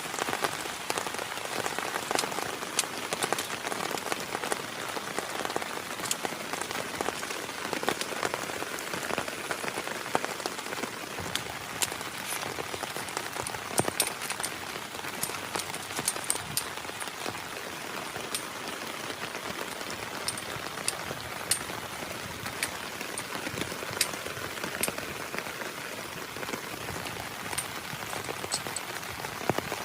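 Heavy rain falling steadily: a dense, even hiss with frequent sharp individual drop strikes.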